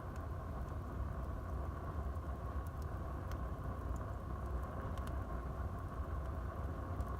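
Wood fire burning in a fireplace: a steady low rumble of the flames with a few faint, sparse crackles and pops from the burning logs.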